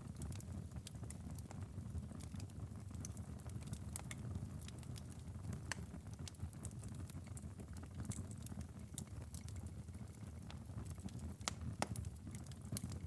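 Wood fire crackling in a fireplace: irregular sharp pops and snaps over a steady low rumble of the flames, with a couple of louder pops near the end.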